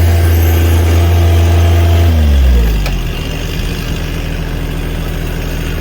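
Two-stroke chainsaw running at high revs, then the throttle is let off about two seconds in and the engine falls to a steady idle.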